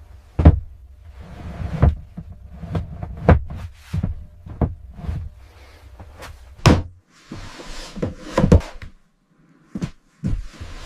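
Irregular knocks and thuds from building work, about one or two a second over a low steady hum, with a hissing stretch about seven seconds in.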